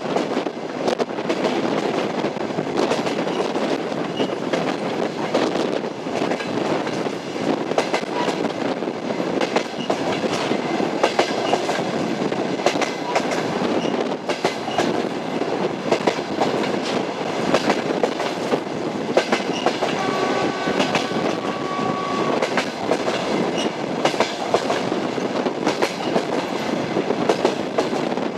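Train wheels running over rail joints, a continuous clickety-clack with the rumble of the moving railcar. About two-thirds of the way through there is a short steady whine lasting a couple of seconds.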